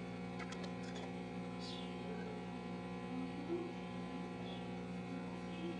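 A steady electrical hum with many even overtones, with a few faint, brief sounds over it.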